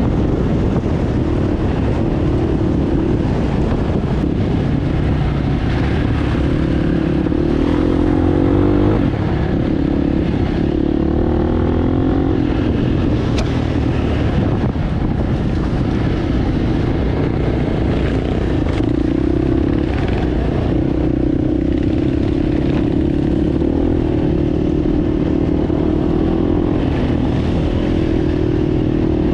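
Enduro motorcycle engine running under way, its pitch wavering up and down with the throttle, over a steady low rumble.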